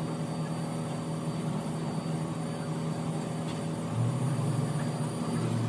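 A motor running with a steady low hum. A deeper tone joins about four seconds in and drops away just before the end.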